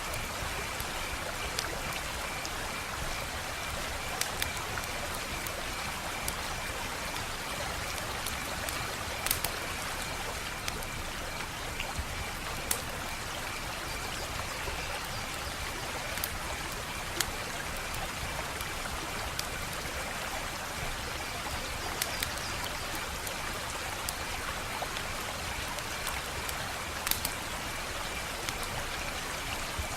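Wood fire crackling in a fireplace: a steady hiss with sharp pops every few seconds, and a faint high pulsing tone behind it.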